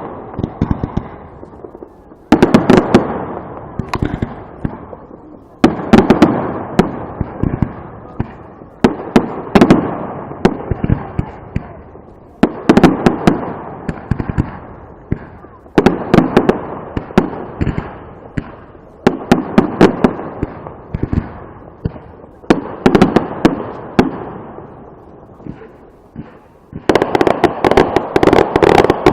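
Fireworks display: volleys of bangs come roughly every three seconds, each a cluster of sharp cracks that dies away. Near the end they run together into a dense, continuous barrage.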